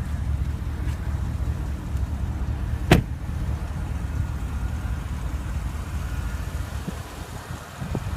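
2015 Porsche Panamera Turbo's 4.8-litre twin-turbo V8 idling with a steady low rumble. A single sharp clunk comes about three seconds in.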